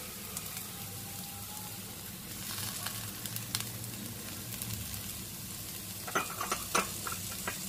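Chopped onion, green chillies and ginger sizzling in hot oil in a nonstick frying pan, a steady hiss, with a few sharp crackles near the end after curry leaves go into the oil.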